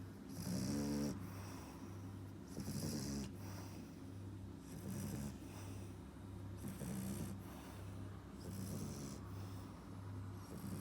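A French bulldog puppy snoring in its sleep, a buzzy snore on each breath, about one every two seconds.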